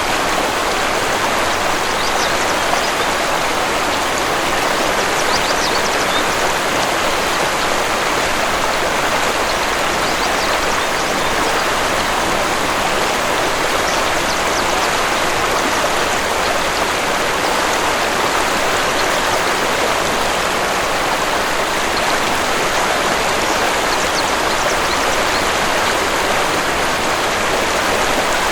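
Waterfall rushing steadily, an even wash of falling water, with faint bird chirps now and then.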